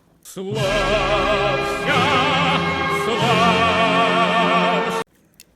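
Operatic singing with strong vibrato over orchestral accompaniment. It starts about half a second in and cuts off abruptly near the end.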